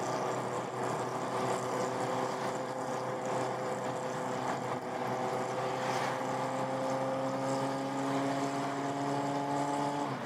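Honda CB400Four's air-cooled inline-four running through its replacement muffler, a steady exhaust note whose pitch rises gently over the last few seconds as the revs climb.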